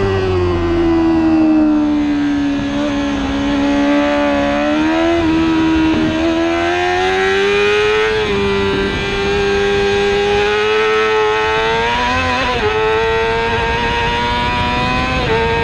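Racing superbike engine running hard at high revs, heard onboard. The engine note falls over the first couple of seconds, then climbs steadily, with a few brief abrupt steps in pitch as gears change.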